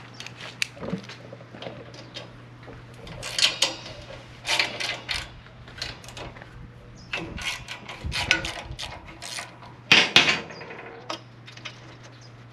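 Workshop clatter: irregular metal clanks, clicks and rattles of hand tools and engine parts being handled, over a steady low hum.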